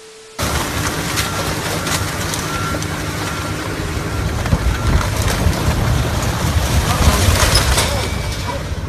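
A vehicle engine running under loud, rough rumbling noise, with scattered knocks in the second half.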